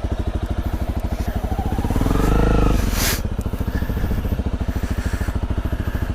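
Honda CRF250L's 250 cc single-cylinder four-stroke engine running at low revs with an even pulsing beat. It revs up briefly about two seconds in, and a short burst of noise follows about a second later.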